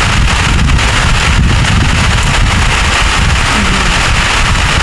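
Storm wind with driving rain, the gusts buffeting the microphone in a loud, steady rumble.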